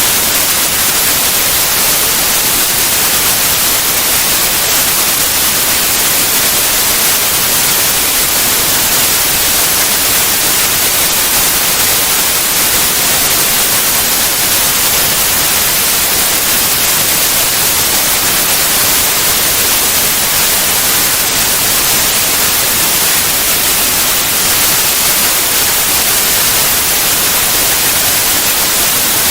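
Steady white noise: an even, unchanging hiss across all pitches, brightest in the high range, with no breaks or events.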